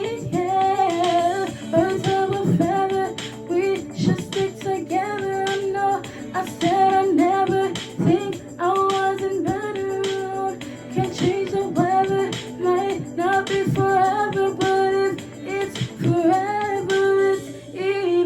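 Female voice singing a slow pop song with musical accompaniment.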